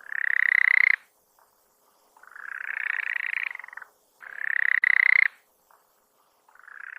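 Marsupial frogs (Gastrotheca) calling: four fast trilled calls, each about a second long, alternating between a louder, shorter call and a softer, longer one.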